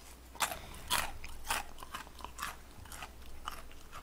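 Crunchy chewing of bite-size fried chicken (dakgangjeong), about two crisp crunches a second.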